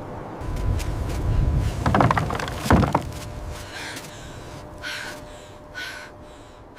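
A bird cawing: four short, harsh calls in the second half, after a louder, lower sound about two to three seconds in.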